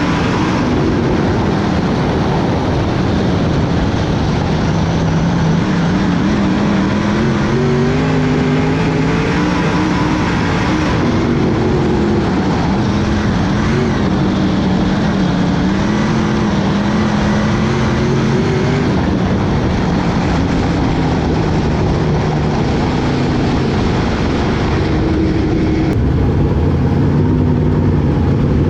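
Dirt-track race cars running on the track, several engines at once rising and falling in pitch over the steady noise of the field.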